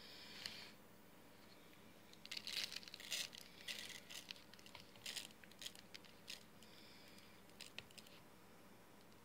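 Coarse kosher salt being poured into a tobacco pipe's bowl: faint scattered rustling and crackling of grains, in short bursts from about two seconds in, with a few small clicks.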